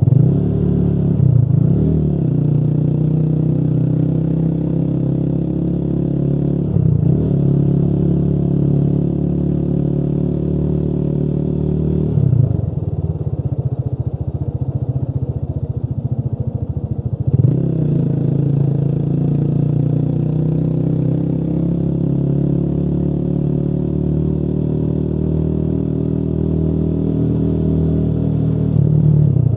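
Motorcycle engine running on the road, its pitch climbing slowly and then dropping sharply at each gear change, several times over.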